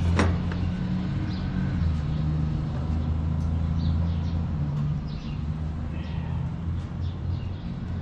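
An engine running steadily at an even low idle, with a sharp click just at the start and a few faint bird chirps over it.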